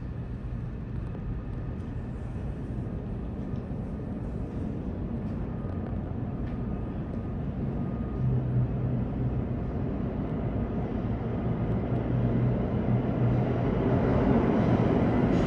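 R160 subway train approaching: a steady low rumble that grows gradually louder toward the end.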